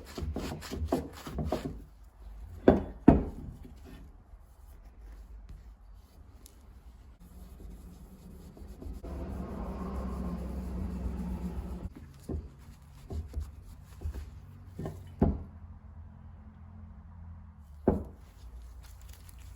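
Hand work on a small brass tool at a bench: sharp taps and clicks as parts are handled and set down, with a few seconds of steady rubbing about halfway through.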